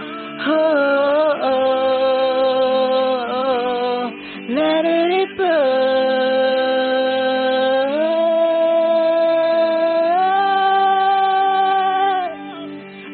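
A singer holding long wordless vowel notes, sliding up and down between pitches, over a steady sustained accompaniment. The voice drops out briefly about four seconds in and again near the end.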